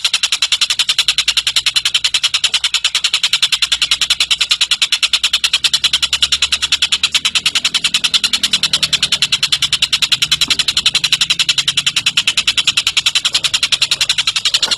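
Tengkek cililin bird giving a long, unbroken, high-pitched chattering trill of very rapid notes, about a dozen a second.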